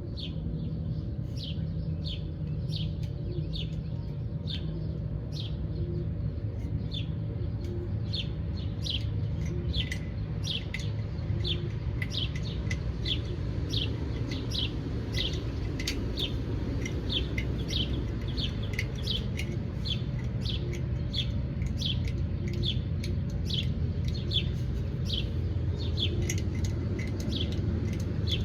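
Songbirds chirping outdoors: a long run of short, high, downward chirps, roughly two a second and coming thicker after the first several seconds, over a steady low rumble.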